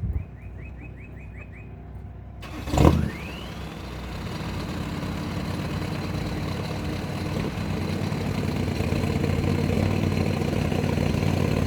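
A mini truck's engine is cranked and catches with a sudden loud burst about two and a half seconds in, then runs steadily. It grows gradually louder as it takes up the tow rope.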